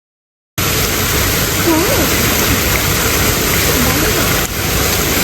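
Steady rushing of falling water, like a waterfall, cutting in abruptly after silence about half a second in, with faint voices under it.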